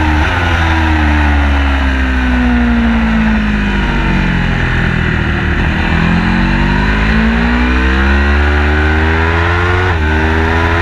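Car engine on a race track: the revs fall steadily while slowing, then climb under acceleration and drop with an upshift near the end, over a heavy low rumble of road and wind noise.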